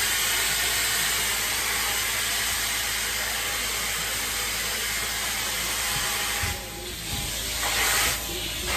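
Hot-water extraction cleaning tool spraying and sucking, a steady loud hiss that cuts out briefly twice near the end as the trigger or tool is lifted.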